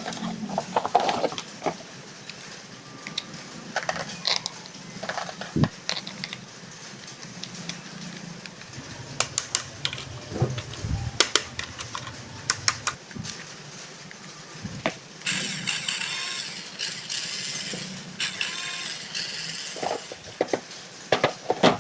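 Hands handling a toy and its packaging: scattered clicks, taps and knocks. A few seconds of rustling and crinkling come about two-thirds of the way through.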